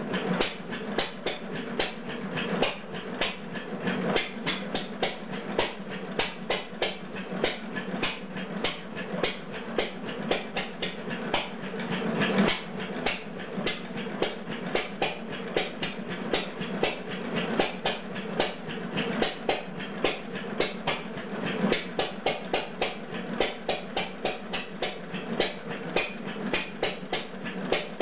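Old Bradford stationary gas engine running with a steady rapid clatter of about three or four sharp clicks a second, some beats louder than others at uneven intervals. Its governor is still settling, a little twitchy in the owner's words.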